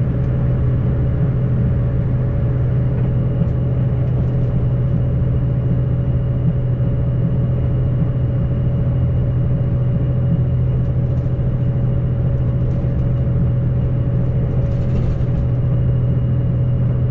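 JR Shikoku 2700 series diesel railcar, its engine droning steadily at one constant pitch with a steady higher hum over it.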